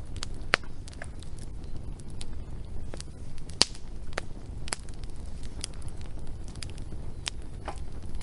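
Wood fire crackling: irregular sharp pops and snaps over a low steady rumble, the loudest pops about half a second and three and a half seconds in.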